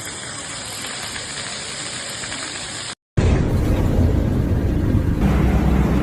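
Steady rush of water. About three seconds in it cuts off, and a louder, deep rumbling noise takes over.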